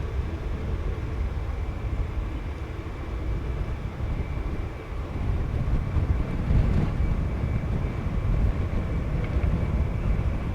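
Wind buffeting the microphone as a gusty low rumble, with a faint steady high tone behind it.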